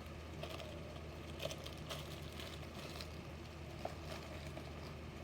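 A few faint, light clicks and taps from handling a small die-cast toy car, over a steady low hum.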